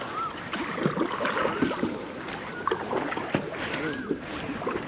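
Kayak paddling: paddle strokes dipping and splashing in shallow water, with drips and light knocks against the kayak.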